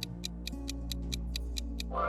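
Quiz countdown-timer sound effect: a fast, even clock ticking, about six ticks a second, over a steady background music bed. Near the end a rising tone comes in.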